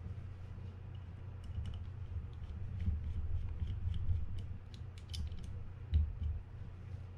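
Light, scattered clicks and small scrapes of a screwdriver and small metal fishing-reel parts being handled, with a duller knock about six seconds in.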